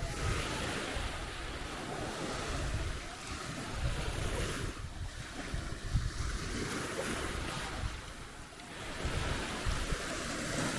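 Surf breaking and washing up the beach, the noise swelling and ebbing every few seconds, with wind rumbling on the microphone.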